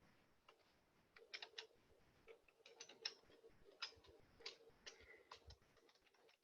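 Faint, irregular clicking of keys on a computer keyboard, as a username and password are typed in.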